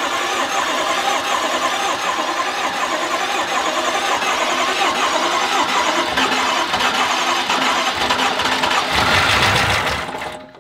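Starter motor cranking a rebuilt BMW S63 twin-turbo V8 without it firing, because the fuel pump is disconnected; the engine is being spun over to build oil pressure before its first start. The steady cranking stops abruptly about ten seconds in.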